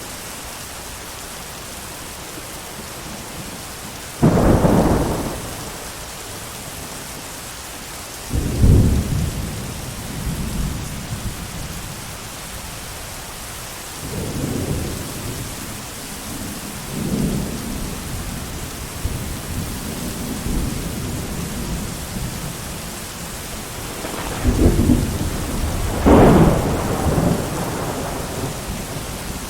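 Thunderstorm: steady heavy rain with repeated thunder, loud sudden claps rolling into rumbles about four and eight seconds in, softer rumbles in the middle, and two more loud ones close together near the end.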